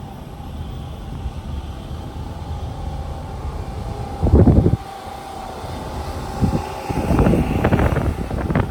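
Outdoor wind buffeting the microphone over a steady low rumble, with strong gusts about four seconds in and again near the end.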